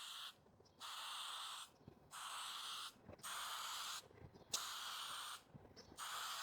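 Aerosol can of high-temperature black spray paint hissing in short bursts, about six of them, each just under a second long with brief pauses between.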